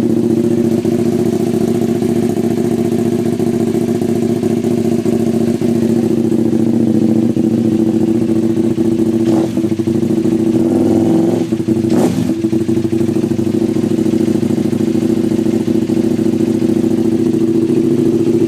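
KTM 990 SMR's V-twin idling steadily through unbaffled MIVV Suono slip-on exhausts, really loud. There is a sharp click about twelve seconds in.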